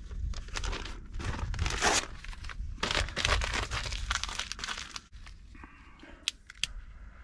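Newspaper being torn and crumpled by hand to build a fire, in repeated rustling bursts for about five seconds, then two sharp clicks near the end.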